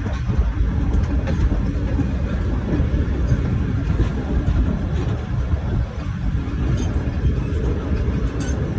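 Passenger train running along the track: a steady low rumble of wheels and carriage, with a few faint clicks scattered through it.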